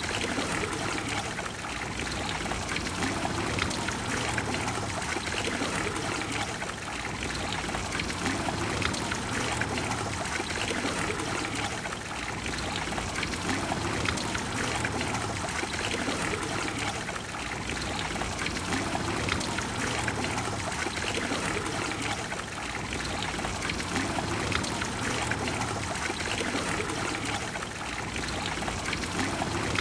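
Water of the Trevi Fountain flowing and splashing steadily.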